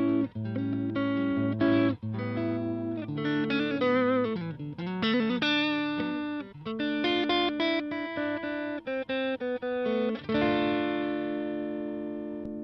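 Electric guitar, a Stratocaster played through a Valeton Dapper Mini amp-simulator pedal. It plays chords and riffs with string bends around the middle, then short choppy notes, and a final chord left ringing and fading out near the end.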